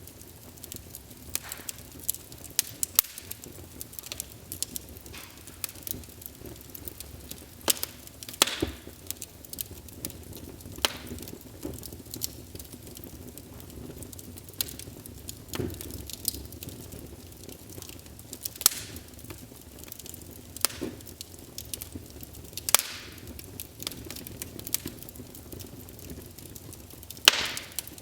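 Wood fire crackling in a fireplace: irregular sharp pops and snaps, a few much louder than the rest, over a steady low hiss of burning.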